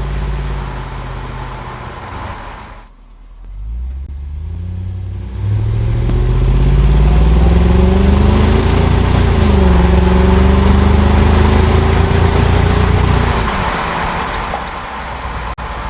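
2001 Jaguar XK8's AJ27 V8 through its exhaust: the car slows almost to silence at a stop, then pulls away, with the engine note rising steadily under acceleration. The pitch drops briefly about halfway through at a gear change, climbs again, and falls away as the driver lifts off near the end.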